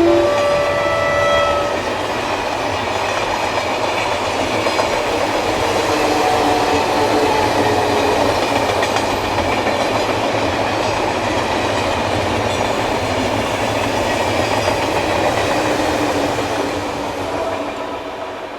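Electric passenger train passing slowly: the end of its horn during the first second and a half, then a steady rumble and clatter of wheels on the rails that fades away near the end.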